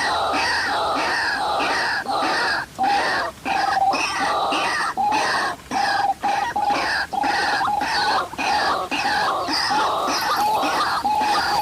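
White-breasted waterhen calling: loud, harsh croaking notes repeated in quick succession without a break.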